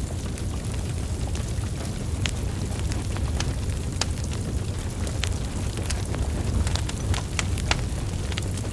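Wood fire burning, with a steady low rumble of flames and irregular sharp crackles and pops from the logs.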